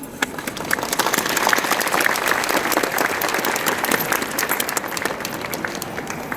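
Crowd applauding, the clapping swelling about a second in and easing off near the end.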